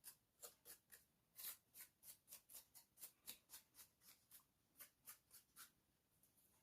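Faint, quick swishes of a brush dusting a craft mirror frame made of spoons, about three or four strokes a second, stopping shortly before the end.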